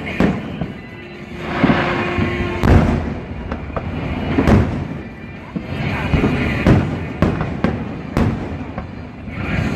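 Fireworks going off in a rapid series of loud bangs, roughly one every one to two seconds, over a continuous rumbling, crackling wash.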